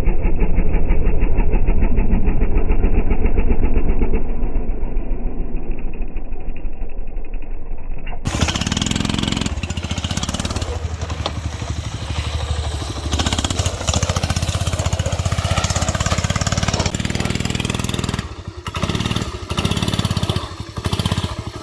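Small motorbike engines running. For about the first eight seconds the engine sound is slowed down, a low, evenly spaced firing beat with a muffled top; then it cuts suddenly to an engine running at normal speed, which dips in level a few times near the end.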